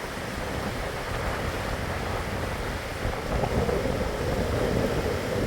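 Steady rushing of fast-flowing river water, with wind buffeting the microphone, growing a little louder over the last couple of seconds.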